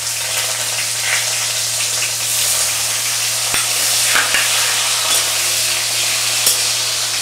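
Chopped tomatoes sizzling in hot mustard oil in an aluminium kadai, with a steady hiss, while a steel spatula stirs them and clicks against the pan a few times.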